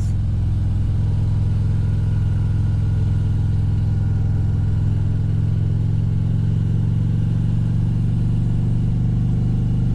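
Motorcycle engine running steadily while riding at an even speed, a low, unchanging drone with no change in pitch.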